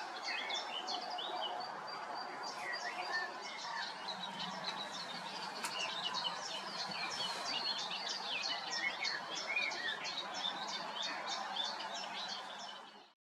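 Several small birds singing, with warbling phrases and a fast run of short high notes, about four a second, through the second half. The sound fades out at the end.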